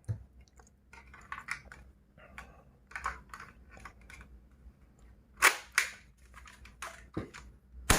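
Scattered clicks and knocks of a plastic toy gun being handled, loudest about five and a half seconds in and again near the end.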